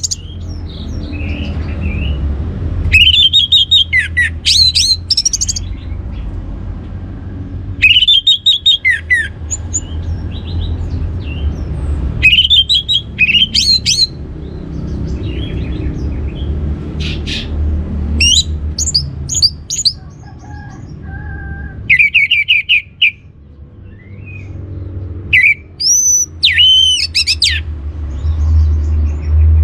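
Orange-headed thrush singing: short, loud bursts of rapid, sweeping whistled phrases every few seconds, over a steady low rumble.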